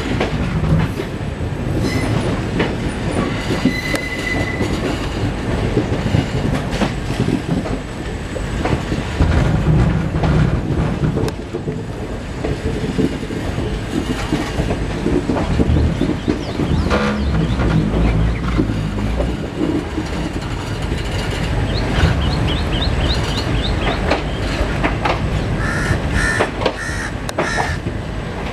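Indian Railways passenger coach rolling at low speed through a station yard: a steady rumble with the clatter of wheels over rail joints and points, and a brief squeal of wheels.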